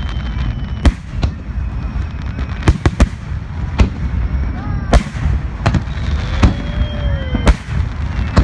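Aerial fireworks bursting during a display finale: about nine sharp bangs at irregular intervals, some close together, over a steady low rumble.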